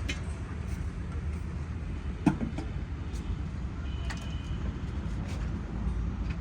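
Steady low rumble of running machinery, with scattered light clicks and one loud metallic clank a little over two seconds in.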